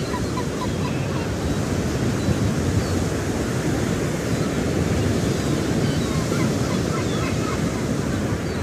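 Steady rushing noise, like wind on the microphone, with faint short chirps of budgerigars scattered through it.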